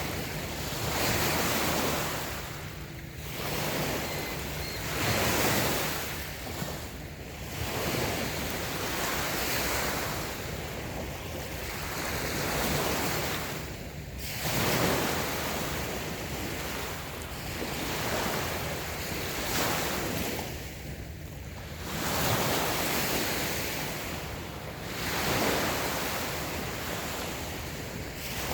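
Light waves washing onto a sandy beach, each one swelling and falling back every three or four seconds.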